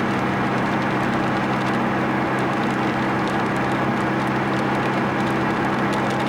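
Car engine and road noise heard from inside the cabin while cruising at a steady speed: an even drone that neither rises nor falls, with faint light ticks over it.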